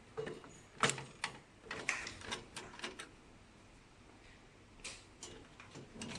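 Irregular clicks and knocks of hands and tools on a printer's plastic and metal parts as it is taken apart. The loudest knock comes a little under a second in, a cluster follows over the next two seconds, and a few lighter clicks come near the end.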